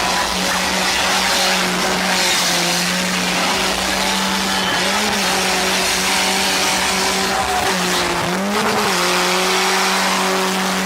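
Car engine held at high, steady revs while the tyres spin and squeal in a burnout. The engine note dips briefly twice.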